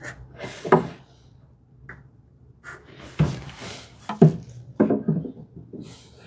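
Hand tools handled on a wooden workbench: several knocks and taps, with short scraping strokes between them, as when marking out with a pencil and marking gauge.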